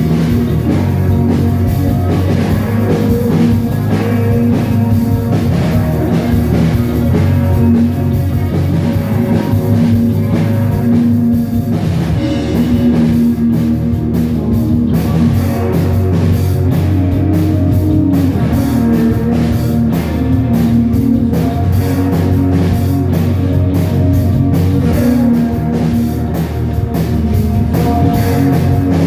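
Live rock band playing loudly, with a drum kit and guitars.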